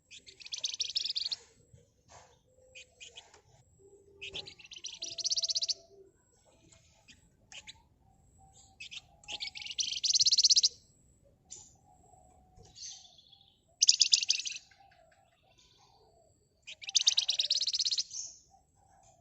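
Flamboyan (wergan Jawa) songbird singing in fast, tightly packed high-pitched rattling trills, five bursts of about a second each a few seconds apart, with soft chips in between.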